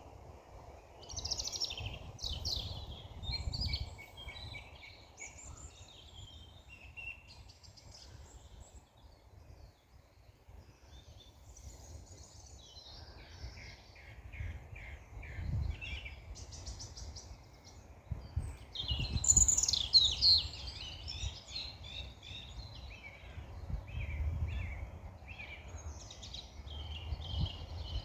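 Small birds chirping and twittering in bursts, with the loudest run of calls about two-thirds of the way through, over a steady low rumble.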